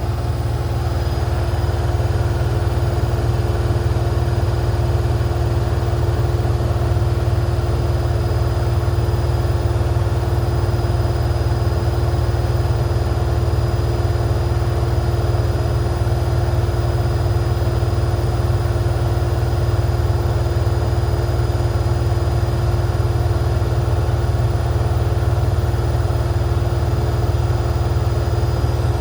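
Washing machine running at full speed with its door open: a loud, steady low drone with a constant whine above it, unchanging throughout.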